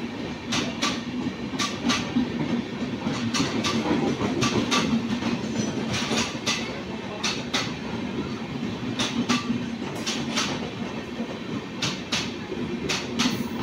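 Indian Railways LHB passenger coaches running through at speed: a steady rumble of wheels on rail with a clickety-clack of sharp clicks in quick pairs, a pair every second or so, as the wheelsets cross rail joints.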